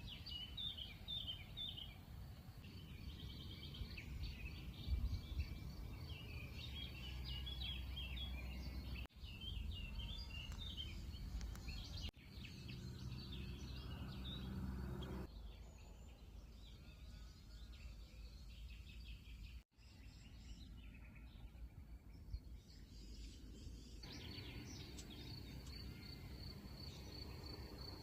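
Several wild songbirds singing and chirping over a steady low rumble of outdoor background noise, with abrupt changes in the background a few times. In the last few seconds a steady high insect trill runs under the birdsong.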